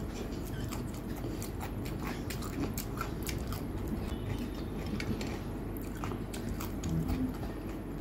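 A person biting into and chewing raw cucumber slices, with many short, crisp crunches.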